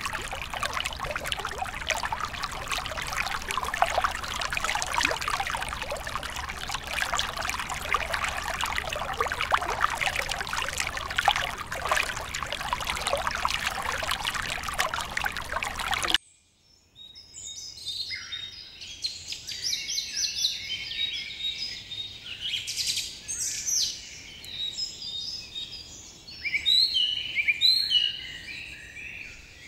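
Underwater ambience: a dense crackling hiss with bubbling. It cuts off suddenly about sixteen seconds in and gives way to songbirds chirping and trilling.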